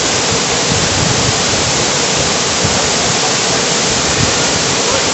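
Steady rushing roar of a waterfall, loud and even throughout.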